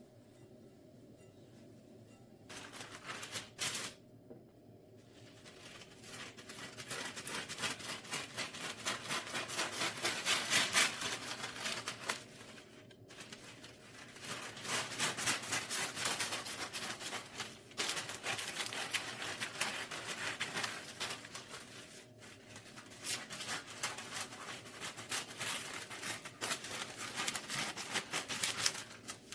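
Rapid rubbing or scraping strokes, many per second, coming in spells of several seconds with short breaks in between.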